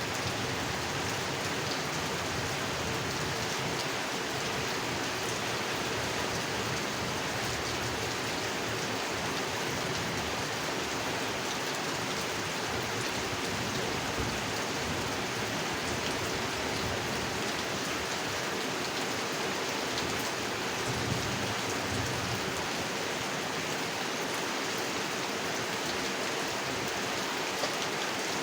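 Steady rain falling on a pond, a continuous even hiss of rain with a few separate drop ticks.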